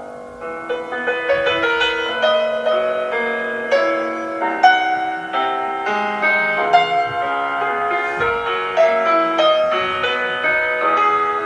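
Solo piano playing a gentle melody, with notes struck in quick succession over a sustained accompaniment.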